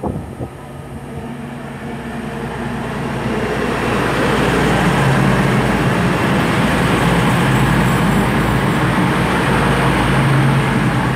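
A CrossCountry Class 220 Voyager diesel multiple unit arriving at the platform. The rumble of its underfloor diesel engines and wheels grows louder over the first four seconds, then stays steady and loud, with a low engine hum running through it.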